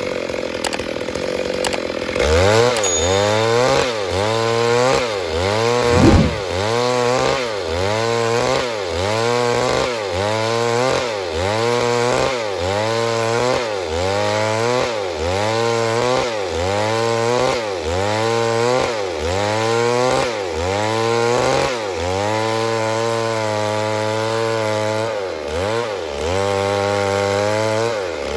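Stihl MS 382 two-stroke chainsaw cutting wood. From about two seconds in, its engine pitch dips and recovers in a steady rhythm, about one and a half times a second, as the chain loads and clears in the cut. There is a single thump about six seconds in.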